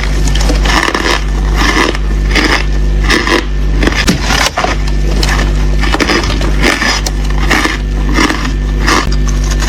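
Ice being bitten and chewed close to the microphone, loud crunching in a rapid, irregular run of cracks, over a steady low hum.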